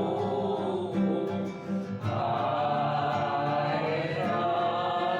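A group of voices singing a kirtan mantra together, holding long sustained notes and moving to a new note about two seconds in.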